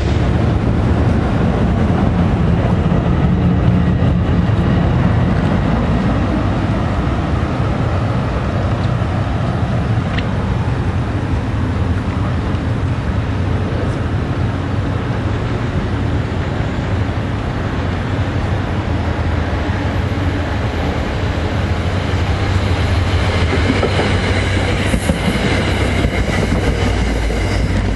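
Commuter train rolling past close by: a steady heavy rumble of the locomotive and coaches, with wheels clicking over the rail joints. A thin high squeal from the wheels joins near the end.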